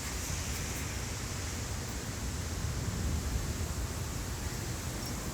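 A steady, even hiss with a low, fluttering rumble underneath: wind on a microphone outdoors during a thunderstorm.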